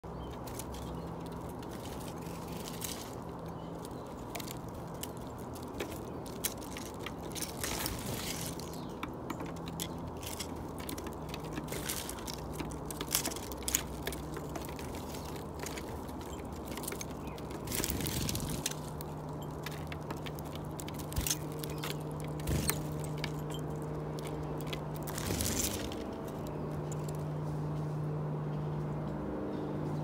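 Backyard birds pecking and scratching at seed: irregular sharp clicks and crunches over a steady low hum.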